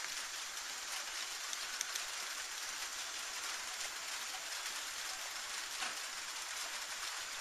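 Light rain falling steadily: an even hiss with a few faint drop ticks.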